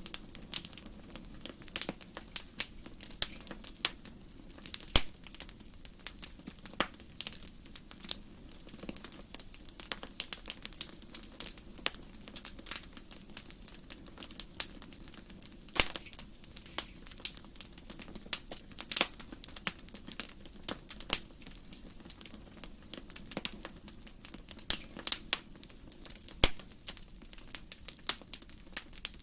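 Wood fire in a fireplace crackling, with irregular sharp pops, a few much louder than the rest, over a steady low rush of flame.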